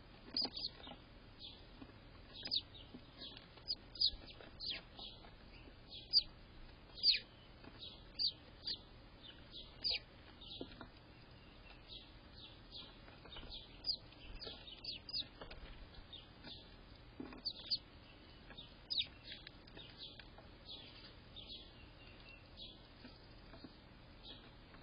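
Birds chirping: short, high notes that slide downward, repeated irregularly, sometimes several in a second.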